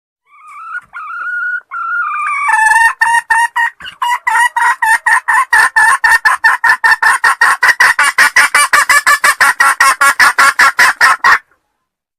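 Junglefowl call played as a trapping lure: a few wavering notes, then a long, fast run of short clucking notes, about five a second, that stops abruptly near the end.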